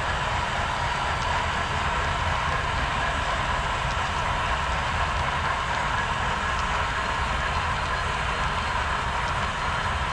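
HO scale model train running along the layout track: a steady rolling hum with a few faint ticks.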